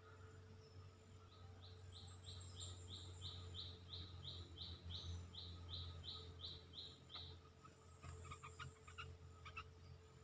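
Faint bird calls: a steady run of short high notes, about three a second for some six seconds, followed near the end by a few scattered short chirps.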